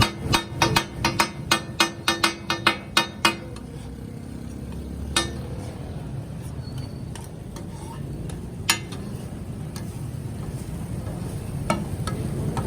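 A cleaver chopping chicken on a wooden board: a quick run of about a dozen hard chops, roughly four a second, then three single chops spaced a few seconds apart.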